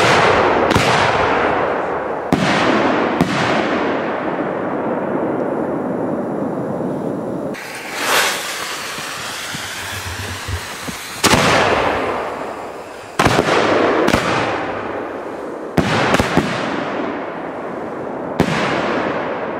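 Fireworks going off: about a dozen sharp bangs, each followed by a long rolling echo, some coming in quick pairs. Around the middle a rushing hiss swells and fades.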